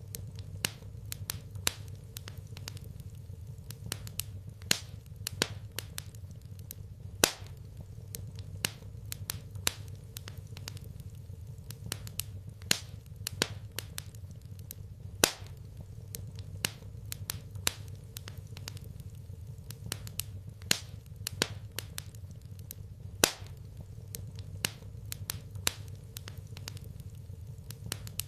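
Wood fire crackling in a fireplace: irregular sharp pops and snaps, a few each second and some much louder than others, over a steady low rumble.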